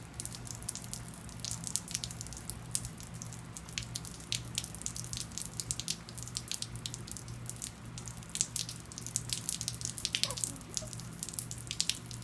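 Rain dripping and pattering in quick, irregular drops, over a steady low hum.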